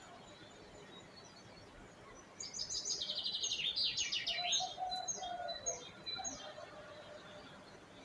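Songbirds singing. About two and a half seconds in, a loud fast trill of high notes sweeps down in pitch, followed by a few separate chirps. A lower warbling call and faint background chirping run alongside it.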